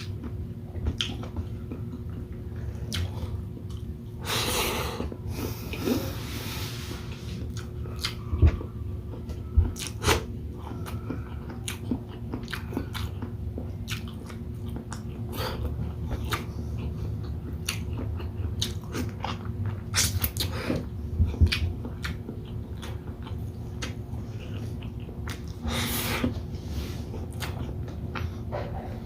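Close-miked eating of shrimp in coconut milk: chewing and biting with many short wet mouth clicks, and a few longer noisy stretches about four to seven seconds in and near the end, over a steady low hum.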